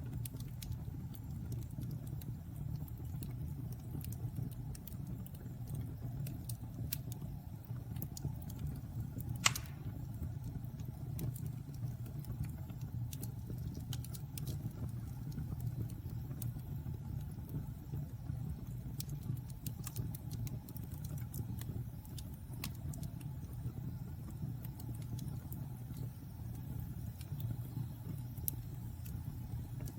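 Wood fire burning in a fireplace: a steady low rumble of flames with scattered crackles, and one louder pop about nine and a half seconds in.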